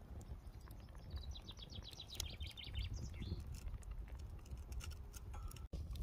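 A songbird sings a quick descending series of notes about a second in, lasting around two seconds, over the scattered snapping of a wood campfire.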